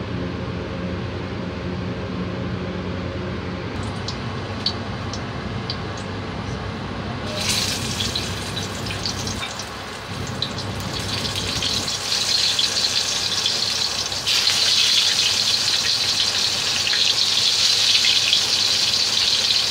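Stuffed bitter gourd slices sizzling in hot oil in a wok. The sizzle starts suddenly about a third of the way in and grows louder past the middle as more pieces go in. Before it there is a steady low hum with a few light taps.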